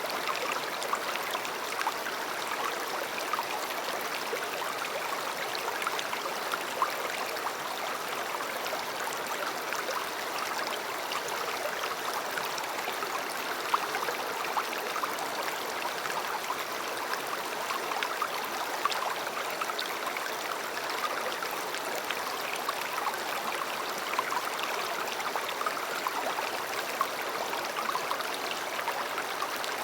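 A river running over rocks: a steady babble of flowing water with small splashes and gurgles.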